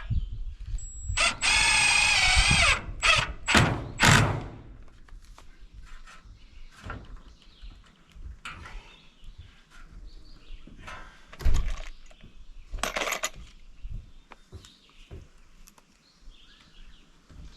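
Cordless drill driving screws into wooden framing: one longer run of the motor about a second in, then three quick short bursts, later a sharp knock and another short burst.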